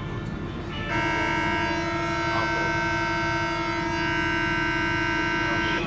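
Paris Métro MF77 train's door-closing warning buzzer, a steady multi-toned tone that starts about a second in, holds for about five seconds and cuts off abruptly, signalling that the doors are about to close. The train rumbles low underneath.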